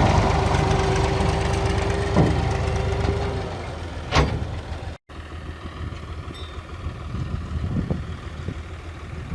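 Ursus 3512 tractor's three-cylinder diesel engine running, with a steady whine over it that fades away during the first half. After a cut about halfway through, the engine is heard more quietly.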